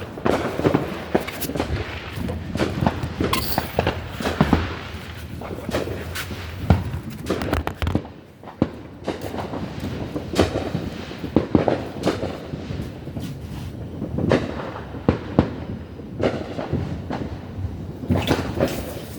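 Firecrackers going off: many irregular sharp pops and cracks in quick succession, with a short lull about eight seconds in.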